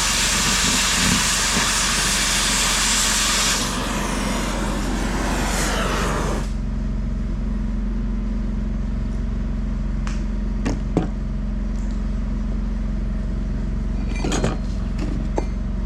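Loud steady hiss of a cutting torch cutting a steel gusset plate, changing and dying away until it cuts off about six seconds in. A steady engine hum runs throughout, with a few sharp metal clicks near the end.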